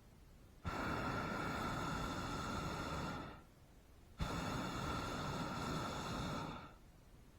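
Hot air balloon's propane burner fired in two blasts of about two and a half seconds each, a steady rushing roar with a hum running through it. Each blast starts suddenly, and the second comes about a second after the first ends.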